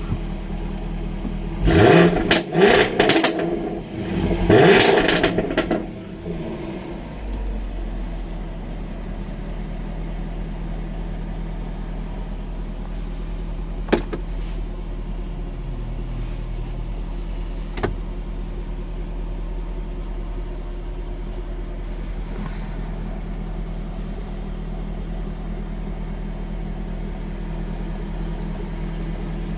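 Jaguar F-Type R's supercharged 5.0-litre V8 blipped several times in quick succession about two seconds in, its pitch rising and falling with crackles from the exhaust, then settling into a steady idle. Two single sharp cracks stand out during the idle, near the middle.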